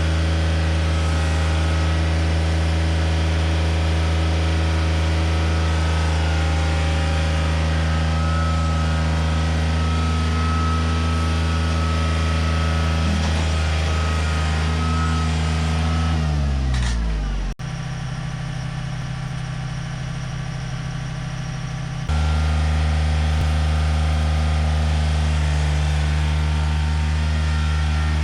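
A John Deere 955 compact tractor's three-cylinder diesel engine running at a steady speed. About sixteen seconds in, the engine note falls sharply as the engine slows. It then switches abruptly to a quieter, rougher running for a few seconds before the steady engine note returns.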